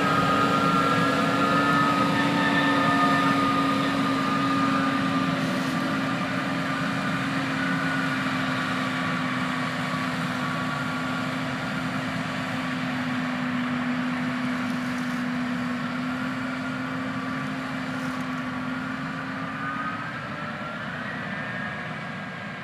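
Heavy diesel farm machinery running with a steady drone and a higher whine over it. The sound drifts slightly lower in pitch and grows steadily fainter toward the end.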